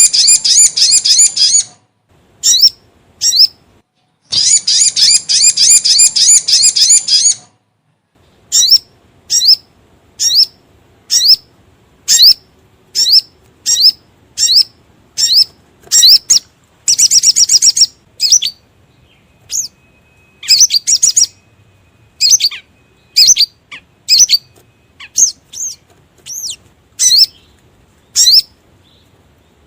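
Recorded song of a sogon (sogok ontong) bird played as a lure call: fast, high-pitched rattling trills lasting a few seconds, alternating with series of short, sharp chirps about one a second.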